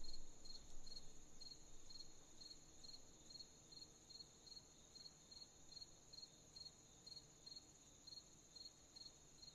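Crickets chirping in a steady rhythm of about three chirps a second over a continuous high insect trill, faint. A low rumble swells and dies away in the first second or so.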